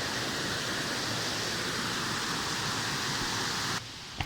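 Waterfall: a steady rush of falling water that cuts off suddenly near the end, followed by a single short click.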